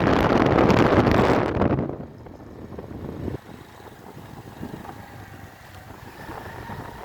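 Wind buffeting the microphone of a moving motorbike, heavy for about two seconds, then dropping away to a much quieter low rumble, with a brief knock about three and a half seconds in.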